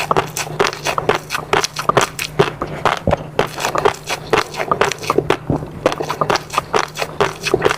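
Close-miked eating: wet chewing and mouth smacking, a quick, uneven run of many small clicks.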